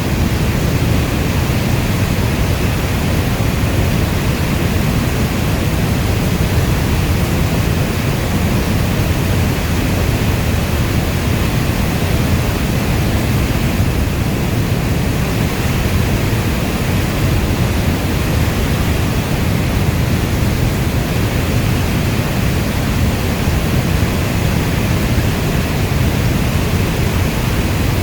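Steady, loud heavy rainfall: a dense, even wash of rain noise with a deep low rumble and no single drops standing out.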